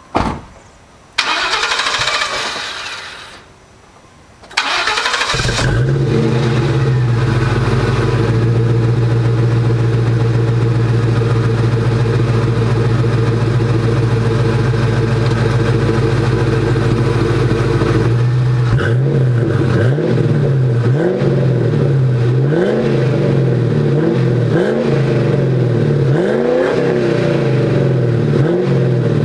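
2003 Mustang GT's 4.6-litre V8 through a MAC 2.5-inch cat-back exhaust, cranked and started, then running at a steady idle. In the second half it is revved repeatedly in short blips that rise and fall in pitch.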